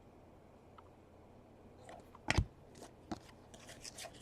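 Handling of trading-card packs: one sharp tap or knock about two seconds in, then light crinkling of a foil pack wrapper.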